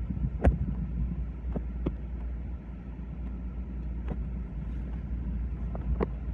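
Steady low rumble of a vehicle in motion, with a few scattered sharp clicks or knocks.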